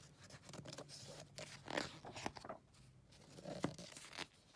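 Pages of a book being turned and handled: paper rustling and swishing in several short sweeps, with a few light clicks.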